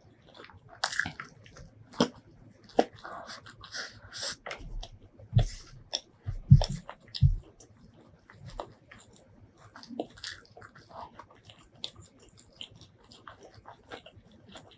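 Close-miked mouth sounds of eating chicken biryani by hand: wet chewing with irregular smacks and clicks, and a few dull thumps about five to seven seconds in.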